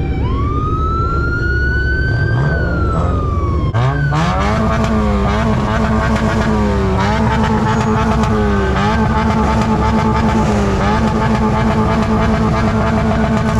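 A pitched whine rises, then falls, and cuts off abruptly. A car engine then takes over, held at steady revs with a brief dip in pitch every couple of seconds.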